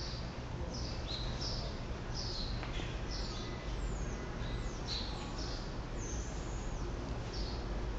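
Birds chirping: short, high, downward-sliding chirps about twice a second, over a steady low rumble.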